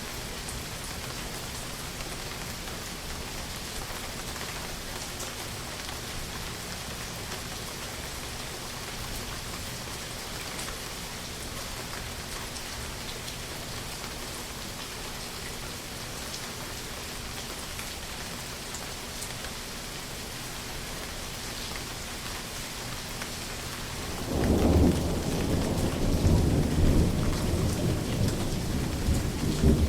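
Steady rain falling, joined about 24 seconds in by a sudden, loud rolling rumble of thunder that goes on to the end.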